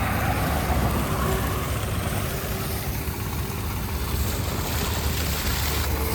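Diesel engine of heavy construction machinery running steadily, its sound mostly low-pitched and even.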